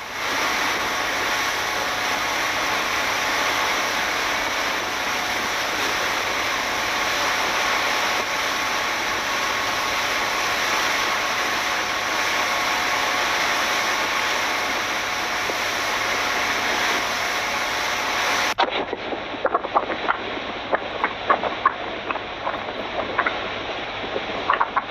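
A heavily laden fishing speedboat running underway: a steady rush of engine, water and wind with a faint steady whine. About eighteen seconds in the rush cuts off abruptly, leaving scattered clicks and knocks.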